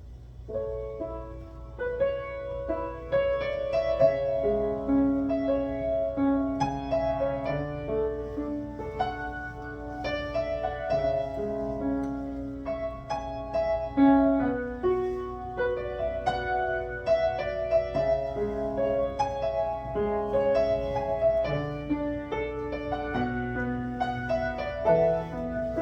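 Piano playing the introduction of a ballad: single notes and chords ringing on, before any voice comes in.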